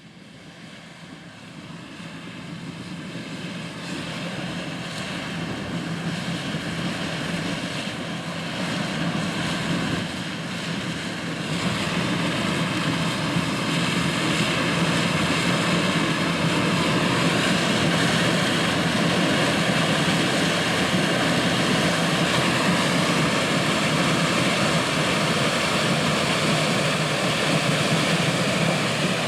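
Heavy corn-harvest machinery running steadily: a deep engine drone with higher steady whines layered over it. It fades in over the first several seconds, gets louder about twelve seconds in, then holds level.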